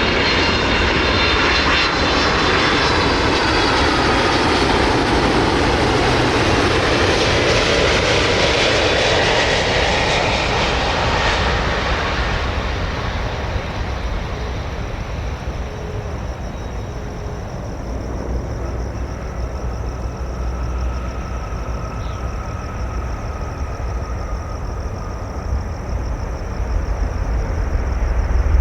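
Boeing 767 freighter flying past on its landing approach: loud jet engine noise with falling whines, which fades after about twelve seconds to a low rumble that swells again near the end.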